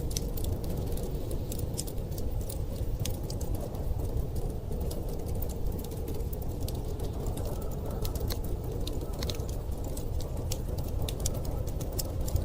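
Wood fire crackling with many small irregular pops and snaps, over a steady low rush of blizzard wind.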